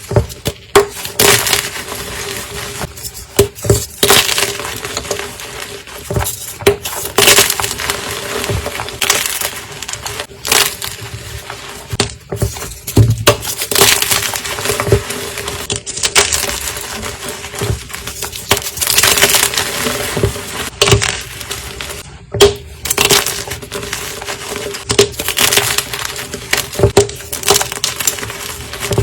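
Blocks of gym chalk being crushed, a crisp crunching and crumbling in irregular bursts, with sharp cracks standing out every second or two.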